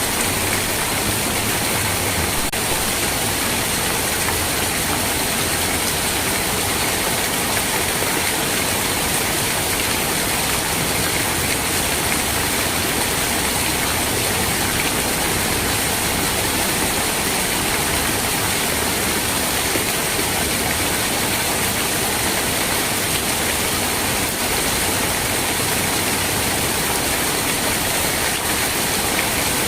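Steady rain: a dense, even hiss that does not change.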